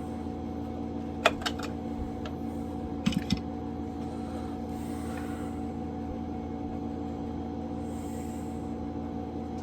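A few sharp clicks and knocks of a Homelite Super XL-67 chainsaw's parts being handled during inspection: two about a second in and a quick group of three about three seconds in, over a steady mechanical hum.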